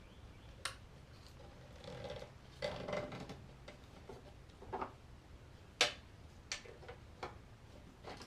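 Plastic clicks and scraping as headlight bulbs are twisted and locked into the headlight housings: a series of separate sharp clicks about a second apart, the sharpest just before the six-second mark, with a brief stretch of rubbing and scraping around two to three seconds in.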